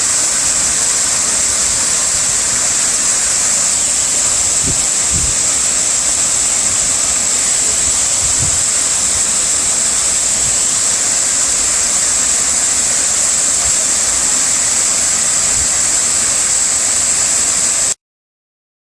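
Waterfall: a steady rush of falling water, with a few faint low thumps, that cuts off abruptly into silence near the end.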